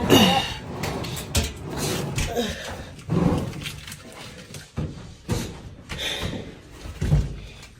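Irregular knocks, bumps and thuds from things being handled and moved in a small room, with a few short bits of voice.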